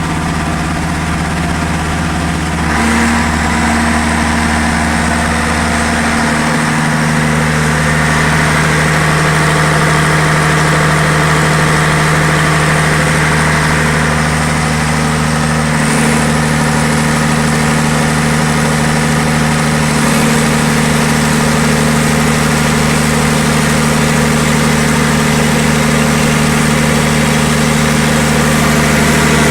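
Diesel generator engine running steadily. About three seconds in its sound grows slightly louder and takes on an added tone.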